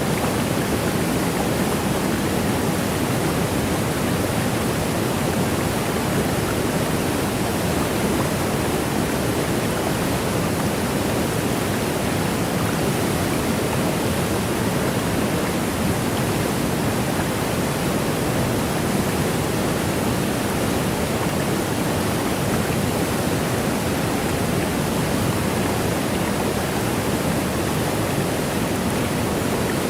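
Waterfall: a steady, unbroken rush of falling water, even throughout and fullest in the low range.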